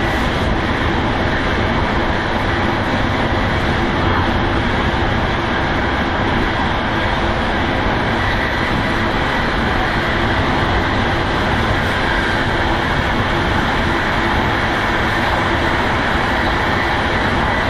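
EuroCity passenger train running at speed through a stop without stopping, heard from inside the train: a steady, loud rumble of wheels on rails and the carriage in motion.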